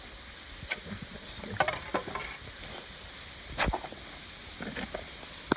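Steady rushing hiss of a waterfall and creek, with scattered clicks and scrapes of digging and handling dirt and stones; the loudest click comes about three and a half seconds in.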